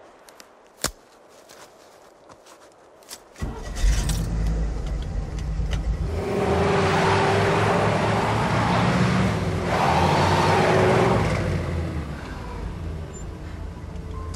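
A few sharp clicks, then about three and a half seconds in a vehicle engine starts and runs. Twice it is revved hard, with a rushing noise and a held whine, then it drops back to running: an attempt to drive a stuck vehicle free.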